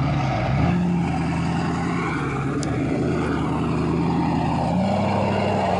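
Ford F-350's 6.4-litre twin-turbo Power Stroke V8 diesel running steadily, its engine note stepping up a little about half a second in and again near the end.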